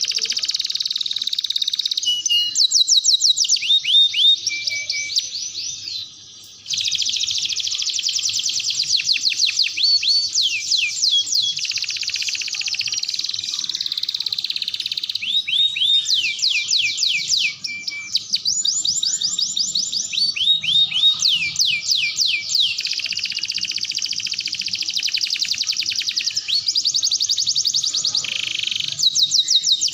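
Domestic canary singing a long, continuous song of rapid trills and runs of fast repeated downward-sweeping notes, with a short break about six seconds in.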